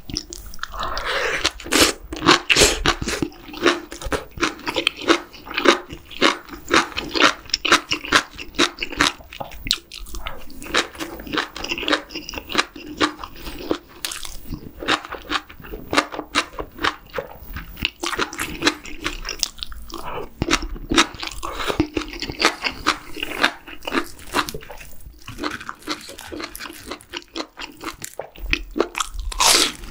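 Close-miked chewing of spicy stir-fried webfoot octopus (jukkumi) with bean sprouts and rice, a dense, irregular run of wet crunches and mouth smacks. Near the end there is a louder crunch as a breaded fried shrimp is bitten.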